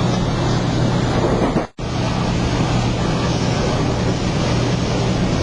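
Passenger train running at speed, heard from inside the coach: a steady rumble with a constant low hum. It cuts out for an instant a little under two seconds in.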